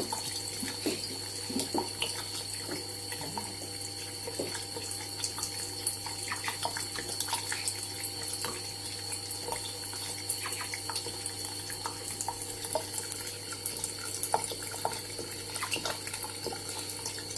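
Kitchen tap running steadily into the sink, with irregular small splashes and drips as a budgie bathes in the stream.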